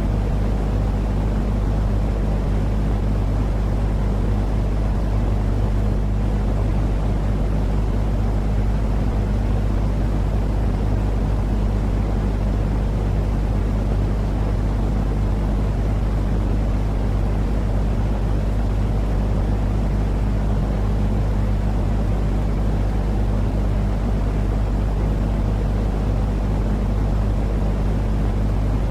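Steady, unchanging white-noise track for lulling a baby to sleep. A deep rumbling hiss, heaviest in the low end, with a faint low hum running under it.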